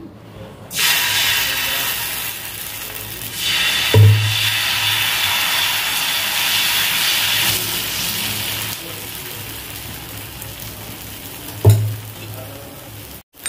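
Dosa batter sizzling on a hot iron tawa as it is poured and spread in circles with a ladle. The hiss starts just under a second in, grows louder for a few seconds, then eases off, with two dull knocks, about four seconds in and near the end.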